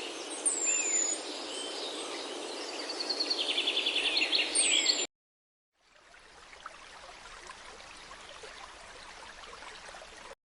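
Birds chirping, with a few sharp falling calls and a quick trill, over a steady rushing outdoor noise. The sound cuts off about five seconds in, and after a brief silence a fainter steady hiss follows.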